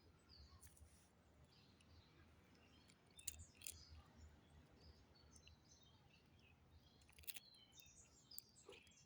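Near silence: faint outdoor ambience with a few faint bird chirps and a couple of soft clicks.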